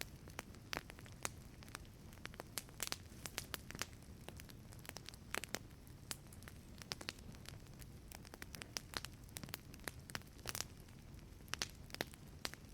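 Wood fire burning in a wood-fired pizza oven: irregular sharp crackles and pops from the burning wood over a steady low rumble of the flames.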